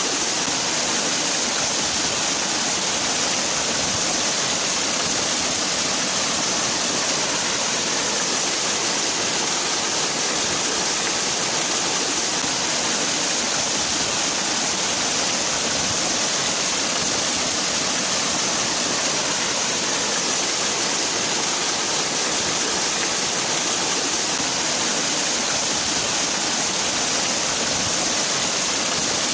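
Waterfall: water falling and splashing in a steady, even rush with no breaks, bright and hissy in the high range.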